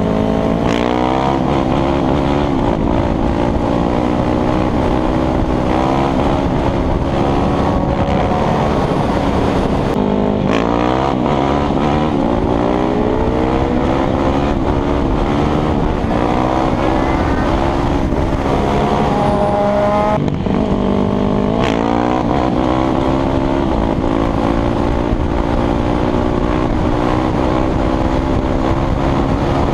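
Motorcycle engine running under load while riding, its pitch climbing slowly and then dropping sharply about ten seconds in and again just past twenty seconds, as gears are changed.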